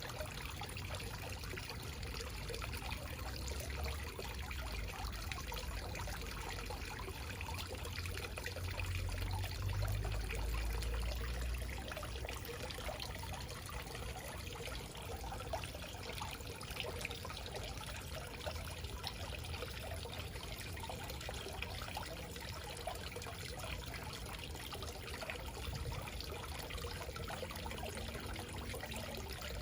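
Small backyard waterfall, water trickling and splashing steadily. A low rumble swells briefly around ten seconds in.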